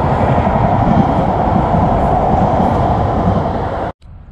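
Passenger train running along the line through a railway station, a loud steady rumble and rail noise that cuts off abruptly about four seconds in.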